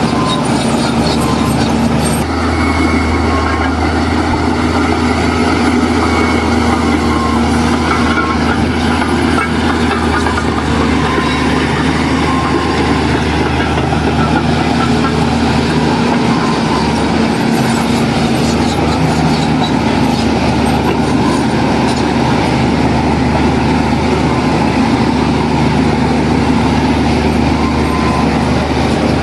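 Heavy diesel engine of earthmoving machinery running steadily under load, with a metallic clatter over it.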